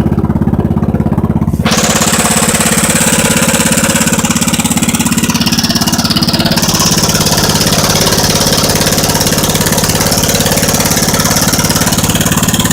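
1967 Wheel Horse 857 garden tractor engine running at a steady idle after a cold start. A brighter hiss joins it suddenly about two seconds in.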